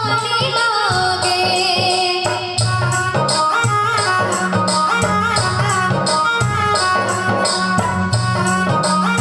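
Indian devotional folk music with a steady beat of jingling, rattling percussion under a bass line and an ornamented melody.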